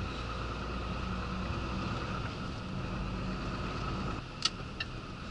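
Cab noise of a Renault 26-ton rigid lorry on the move: steady diesel engine and road noise. The low rumble drops off about four seconds in, followed by two sharp clicks.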